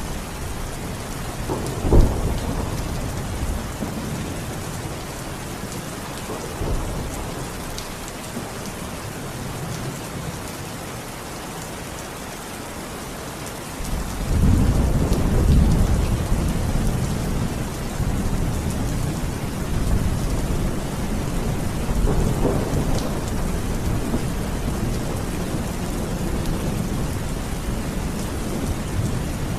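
Steady heavy rain, with thunder: a sharp crack about two seconds in, then a long low rumble that swells about halfway through and rolls on to the end.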